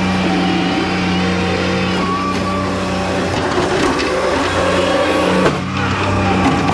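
Skid steer loader's engine running steadily, its pitch wavering and shifting in the middle as the machine works, with a brief dip in level about five and a half seconds in.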